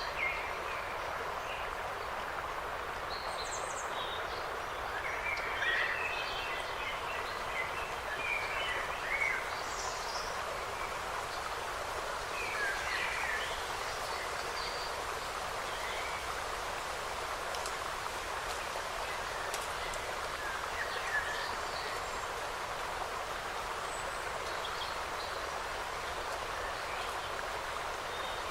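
Forest ambience: a steady hiss with short bird calls scattered over it, most of them between about five and thirteen seconds in.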